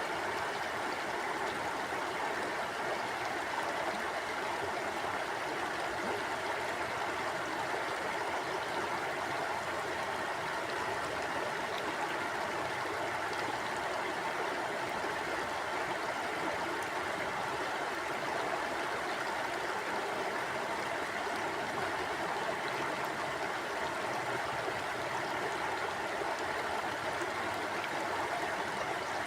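Mountain stream flowing over rocks, a steady rush of water with gurgling.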